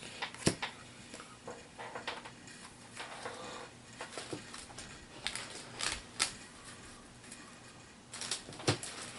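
Scattered light clicks and brief rustles of small plastic pieces being handled: a HeroClix miniature and its packaging.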